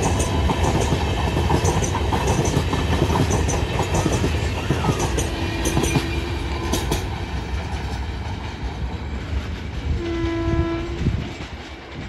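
A passing train's coaches rumbling and clattering, with a steady clickety-clack of wheels over the rail joints. A faint horn sounds about halfway through, and a louder train horn blast of about a second comes near the end. Then the rumble dies away.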